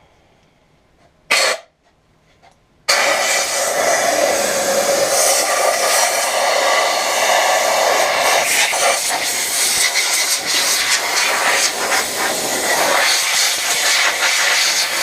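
Compressed air from an air-compressor blow gun blasting through the vacuum's hose and air passages to clear clogged dirt and pet hair. One short burst, then from about three seconds in a long, loud, fluttering hiss.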